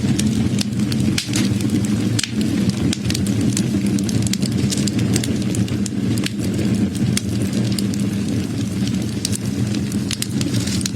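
Wood fire crackling: frequent sharp pops and snaps, irregularly spaced, over a steady low rumble.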